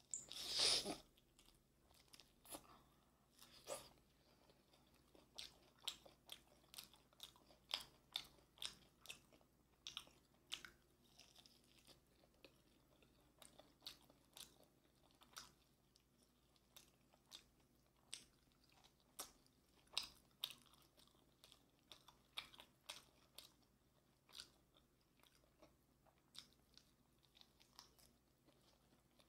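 Close-up crunching and chewing of yangnyeom-sauced Korean fried chicken: a loud crunching bite about half a second in, then a steady run of crisp chewing crunches, roughly two a second.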